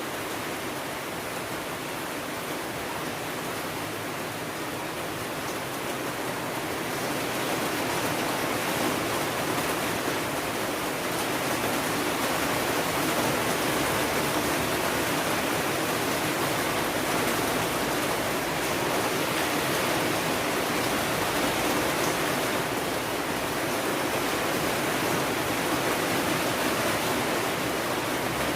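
Steady heavy rain, a dense even hiss, growing somewhat louder about seven seconds in.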